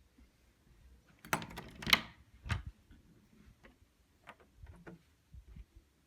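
A cluster of loud clicks and knocks a little over a second in, a single sharper knock shortly after, then scattered light clicks.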